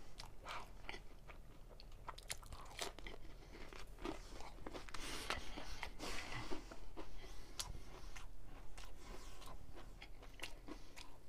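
A person chewing a crunchy snack: irregular crunches and bites, with soft mouth sounds between them.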